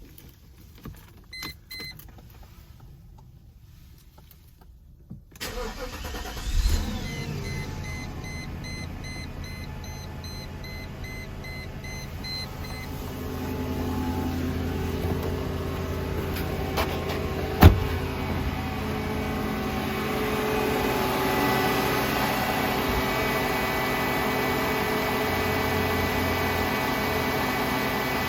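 1997 Mercedes-Benz SL500's 5.0-litre V8 cold-started: a few clicks and short chimes, then the starter cranks and the engine catches about six seconds in. A warning chime beeps repeatedly for several seconds while the engine settles into a steady cold idle that grows louder in steps later on, with one sharp knock about two-thirds of the way through.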